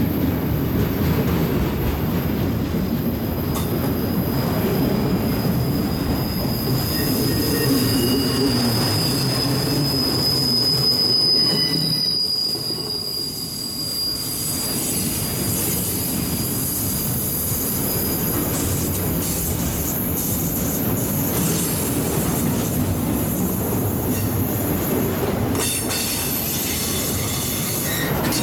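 Autorack freight cars rolling past on curved track: a steady rumble of steel wheels on rail, with a high wheel-flange squeal that swells over the first half and fades out a little past the middle.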